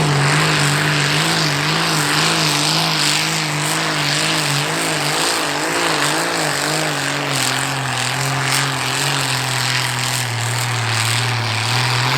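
Continental AV-1790 V12 tank engine in a pulling tractor running at full throttle under heavy load as it drags the sled down the track. Its note wavers, then sags a little about halfway through as the load builds.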